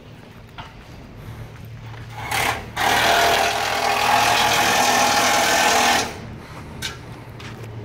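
A low, steady engine hum, broken about two seconds in by a loud, rapid mechanical clatter that lasts about three seconds and cuts off suddenly.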